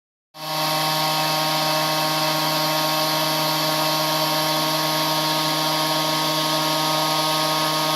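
Desktop CNC router spindle running at a steady pitch with a whine and hiss, its 1/8-inch end mill cutting EVA foam.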